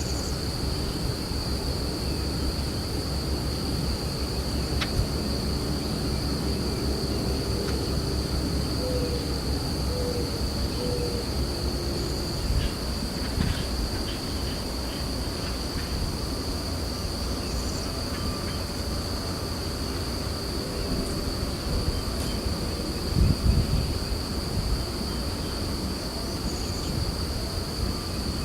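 Steady, high-pitched insect drone from a chorus of insects over a low outdoor rumble. A few faint short low notes come about nine to eleven seconds in, and there are a few dull thumps later on.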